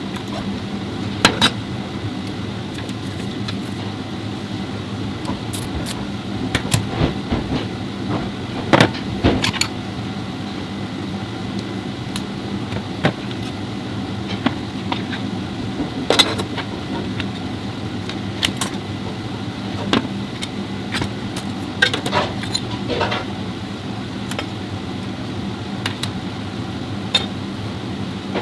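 Irregular metallic clicks and knocks of tools and transmission parts being handled, a dozen or so scattered over the stretch, over a steady low hum.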